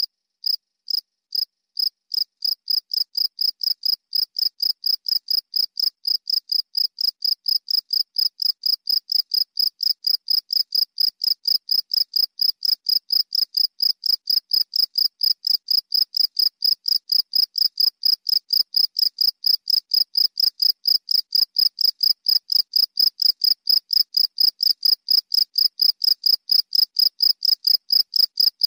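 A cricket chirping: short, even, high-pitched chirps at about three a second, a little slower near the start, keeping a steady rhythm.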